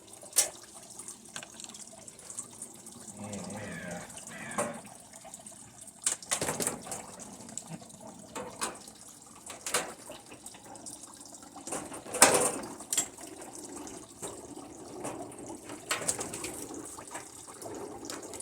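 Knocks and clicks of tools and plastic parts being handled while a screw is taken out of a TV's casing, with squeaky creaking about three to five seconds in.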